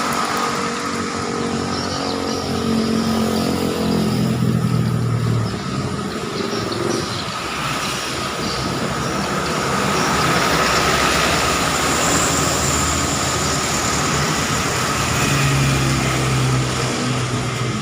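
Steady road traffic passing, a continuous mix of engine and tyre noise from cars and motorbikes. A vehicle's engine note swells louder about three to six seconds in and again near the end as heavier vehicles go by.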